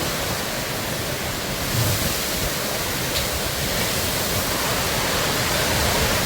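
Hailstorm downpour: a dense, steady hiss of hail and rain falling, with a brief low rumble about two seconds in.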